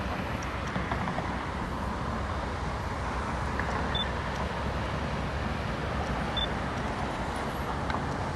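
Freight train rolling past with a steady rumble and low hum. Three faint short high beeps sound about two seconds apart.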